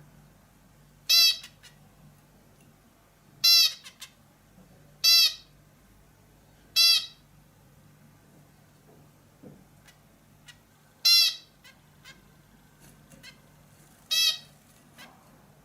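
A bulbul calling: six short, harsh, slightly falling calls, one to three seconds apart.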